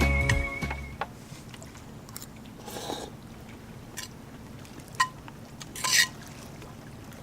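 Background music ending about a second in, followed by scattered light clicks and two short rustling scrapes, the second one near the end the loudest.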